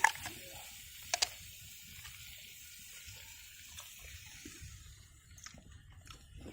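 Food sizzling in a pan with a steady hiss, with sharp metal clinks of a utensil at the start and a quick double clink about a second in. The sizzle dies down after about five seconds.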